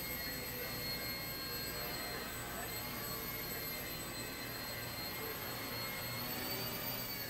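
Blade 70S micro RC helicopter in flight: its small electric motor and spinning rotors give a steady high-pitched whine, the pitch wavering slightly as the throttle changes.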